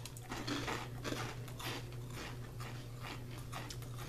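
Two people chewing crunchy senbei rice crackers: an irregular run of crisp crunches, a few a second.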